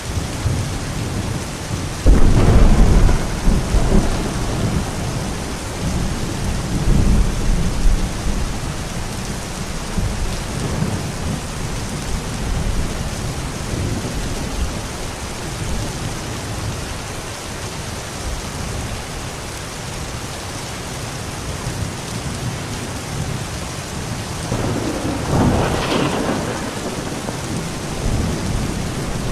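Steady rain with thunder. A loud thunderclap about two seconds in rumbles on for several seconds, and a second clap comes near the end.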